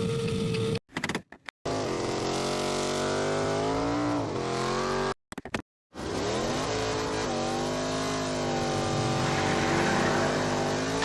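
Car engine accelerating, its pitch rising and levelling off through the revs, in edited clips broken by two sudden cuts to silence, one about a second in and one about five seconds in.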